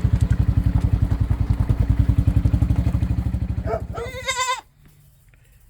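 A farm vehicle's engine running with an even pulsing beat; a goat bleats near the end, and the engine sound cuts off just after it.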